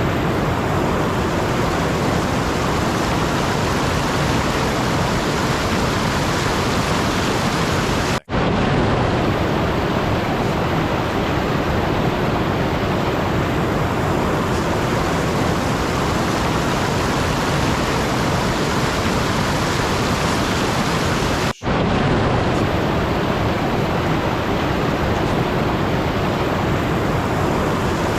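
Steady, even rushing noise that cuts out for an instant twice, about eight seconds in and again about twenty-one seconds in.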